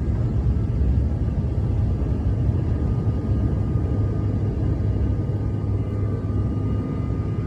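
Steady low rumble of a CRJ-900's rear-mounted GE CF34 turbofan engines under takeoff power during the climb-out, heard from the passenger cabin, with faint steady whining tones above the rumble.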